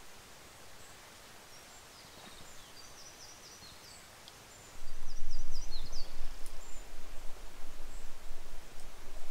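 Quiet forest ambience in which a small bird gives two short trilled phrases of quick high chirps. About halfway through, a loud, uneven low rumble starts and then dominates.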